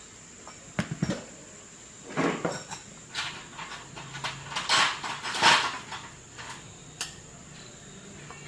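Objects being handled: sharp clicks and knocks about a second in and again near the end, with short bursts of scraping and rustling in between.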